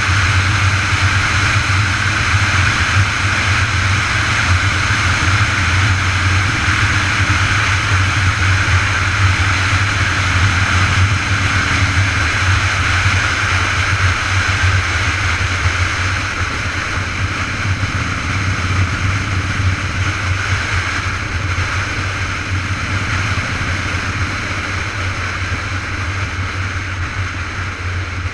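Steady rush of wind over the microphone with a low rumble from the ride, easing slightly past the middle.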